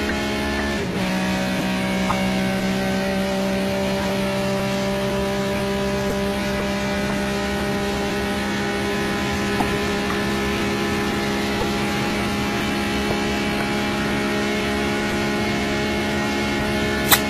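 Ferrari 275 GTB V12 engine running hard at high, steady revs as the car drives flat out, the engine note holding an even pitch. A sharp click sounds just before the end.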